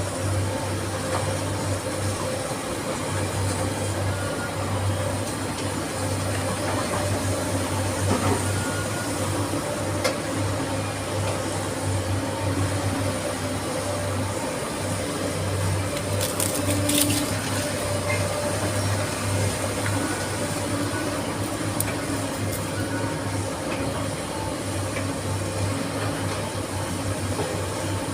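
SANY SY215C excavator's diesel engine running steadily at constant speed, a low even hum. A brief clatter of sharp clicks comes a little past the middle.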